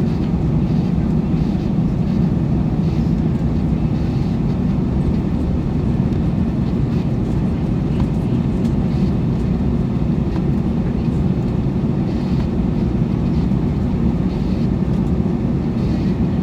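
Steady low rumble of an Airbus A321's engines heard from inside the passenger cabin, even in level throughout.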